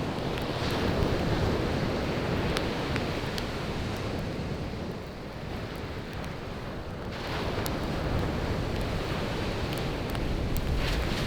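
Sea waves washing onto the beach in slow swells, easing off mid-way and surging again about seven seconds in, with scattered sharp pops and crackles from a wood campfire burning close by.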